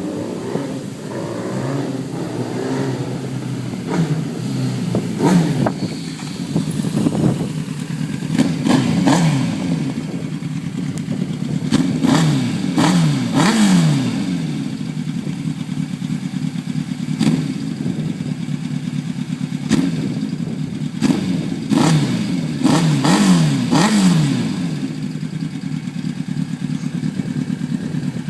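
Kawasaki Ninja ZX-9R's inline-four engine running and being revved repeatedly, its pitch rising with each blip of the throttle and falling back, between steadier stretches.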